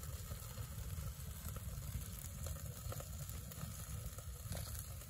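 Food sizzling as it fries in a nonstick skillet on a Kovea Spider propane stove, over a steady low rushing noise.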